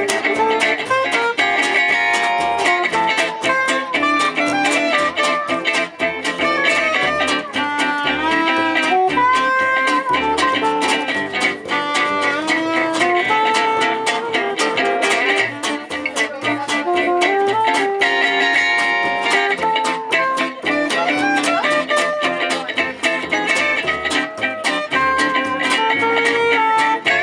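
Live gypsy jazz (jazz manouche) band playing an instrumental passage, guitar-led, with a steady strummed rhythm under a running melody line.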